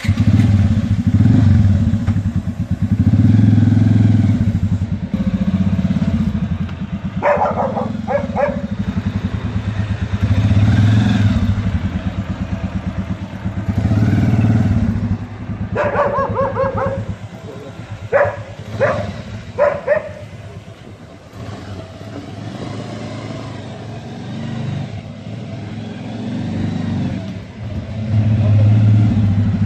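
Modified Bajaj Avenger 220cc motorcycle's single-cylinder engine running, its revs rising and falling in repeated swells.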